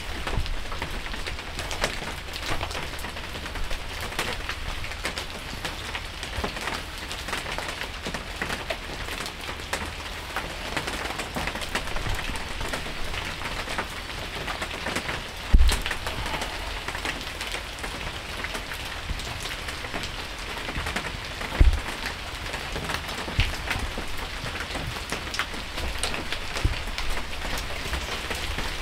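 Steady rain falling, with many single drops tapping close by, and two louder low thumps, one about halfway through and one about two-thirds through.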